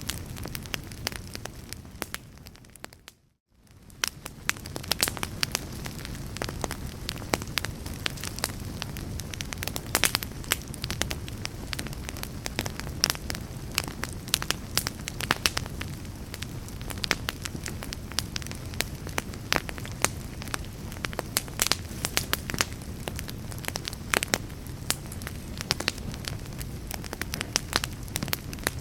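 Wood fire burning in a fireplace, crackling with many irregular sharp pops over a steady low rumble. About three seconds in the sound briefly fades away to near silence and then fades back in.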